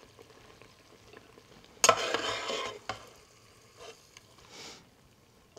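Pork breakfast sausage browning in a pot, stirred and scraped, with one burst of sizzling and scraping about two seconds in and a couple of faint scrapes later.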